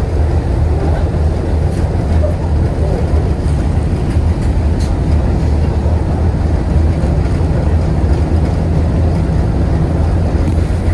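KTM-8KM tram running along the track: a loud, steady low rumble with a few faint clicks now and then.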